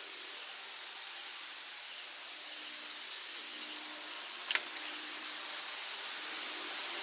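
Steady hiss of background noise, with one short sharp click about four and a half seconds in.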